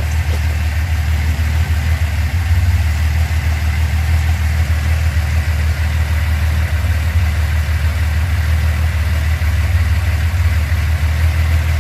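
The freshly rebuilt straight-six engine of a 1970 Datsun 240Z idling steadily during carburettor tuning.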